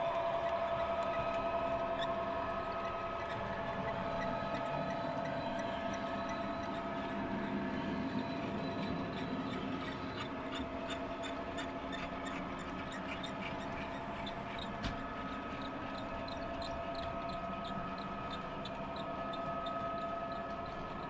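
00 gauge model train running on the layout: a steady high motor whine with a rapid, regular clicking of wheels over the rail joints, clearest in the second half.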